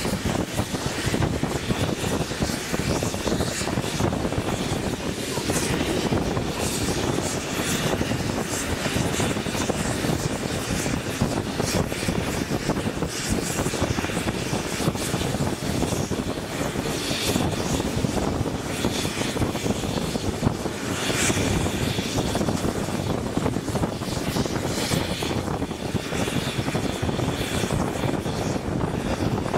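Steam-hauled passenger train running along the line, heard from an open carriage window: a steady rumble of wheels on the rails mixed with rushing wind.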